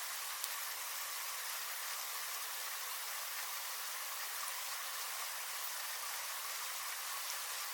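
Steady rushing water noise, an even hiss with a few faint ticks and drips.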